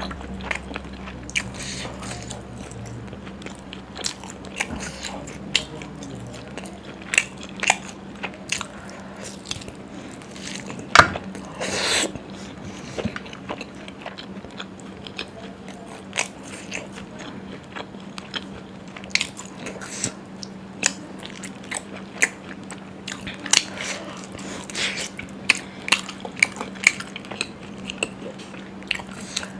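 Close-up eating sounds: a person biting and chewing food, with irregular sharp clicks and crunches, the loudest about 11 seconds in. A steady low hum runs underneath.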